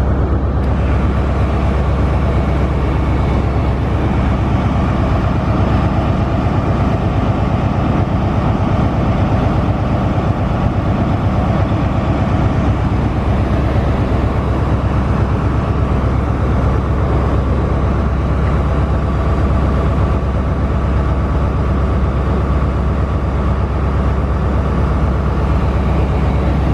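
GWR Class 800 Intercity Express Train passing close by, a loud steady rumble and rush of its wheels on the rails.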